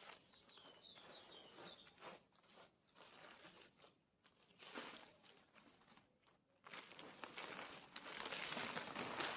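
Rustling and crunching of soil and a plastic sack as potatoes are dug out by hand, irregular at first and louder and steadier over the last few seconds.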